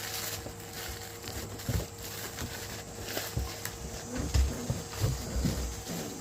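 German shepherd puppies scuffling in play, with irregular thumps and scrabbling of paws and bodies.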